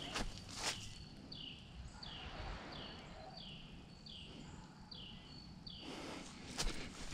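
A small bird singing a steady series of about seven clear whistled notes, each sliding down in pitch, over faint footsteps in dry leaves at the start and near the end.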